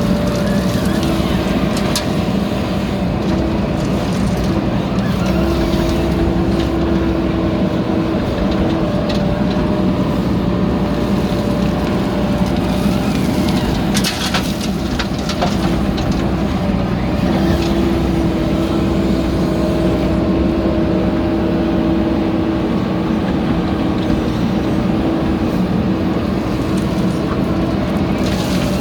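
Diesel engine of a JCB backhoe loader running steadily while working, its note rising and growing stronger for several seconds at a time as the hydraulics take load. A few sharp knocks of metal or dirt, the clearest about 14 s in.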